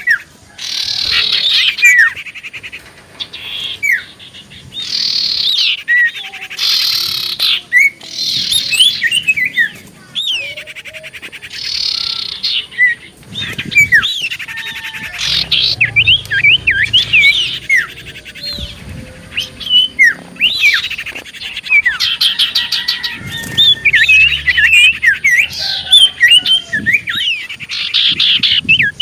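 Common iora (cipoh) singing lively: rapid rattling trills mixed with sharp whistled notes that sweep up and down, in phrases broken by short pauses.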